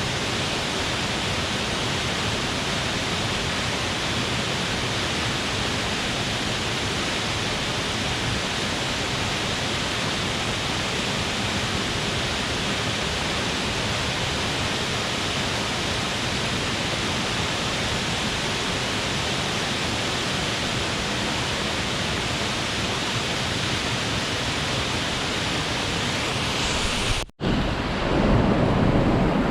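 Waterfall rushing with a steady, even roar of falling water. Near the end the sound cuts out for an instant and comes back louder and deeper.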